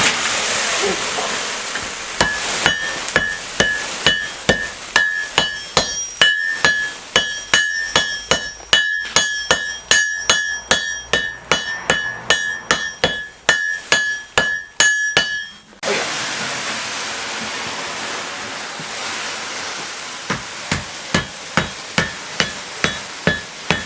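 Hand hammers and sledges striking a hot bog iron bloom on the anvil in a steady rotation, about two to three blows a second, each blow with a ringing anvil note. Near the middle the blows stop suddenly and a steady hiss takes over, then lighter, evenly spaced blows resume near the end.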